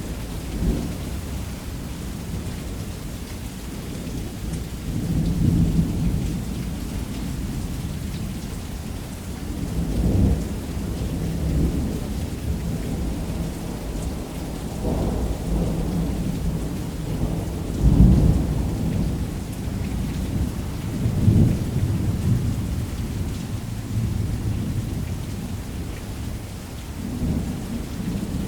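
Heavy rain pouring steadily on a roof while thunder rumbles again and again, each rumble swelling and fading over a few seconds; the loudest rumble comes about two-thirds of the way through.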